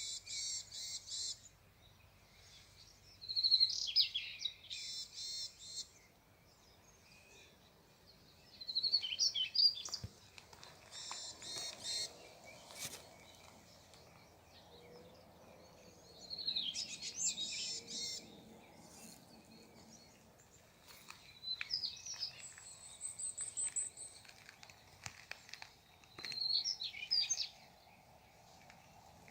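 Songbirds singing and chirping: short bursts of high chirps and quick trills come every few seconds, with quieter gaps between them.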